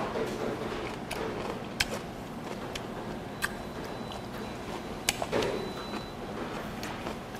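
Close-miked chewing of raw pufferfish sashimi, with a few sharp clicks of chopsticks against the dishes, the loudest about two, three and a half and five seconds in.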